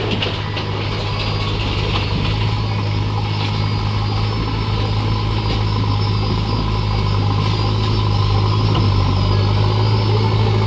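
Diesel engine of a heavy machine running steadily at an even, low hum, with light mechanical rattling.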